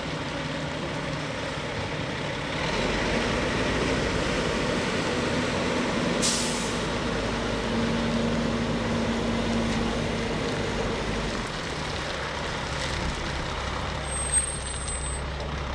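Fire truck's diesel engine running, louder from about two and a half seconds in and easing back near the end, with a short sharp air-brake hiss about six seconds in.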